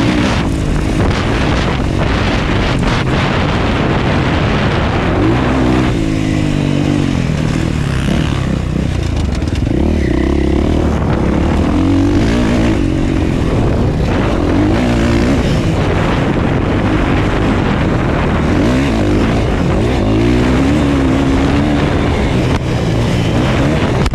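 Motocross bike engine racing on track, its pitch climbing and dropping again and again as the throttle is opened and shut through corners and gears, over a steady rush of noise.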